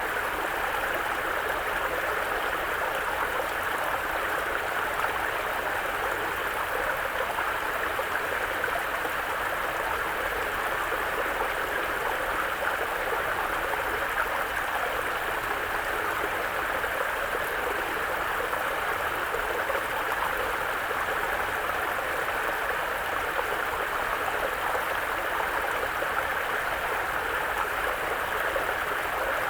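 Mountain brook flowing over rocks, a steady babble of running water with no change in level.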